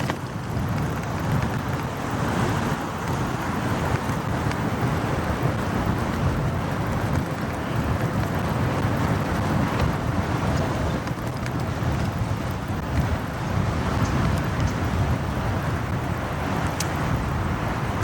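Motorcycle riding through city traffic: a steady rumble of engine and road noise, with a few faint ticks.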